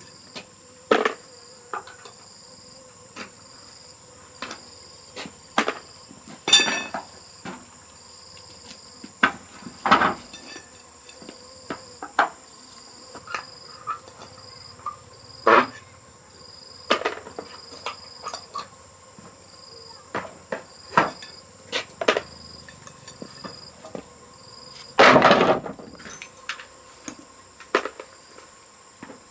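Crickets and other insects calling steadily, one high even tone with a pulsing chirp beneath it. Over them come irregular sharp knocks and clunks, with one longer rough clatter near the end.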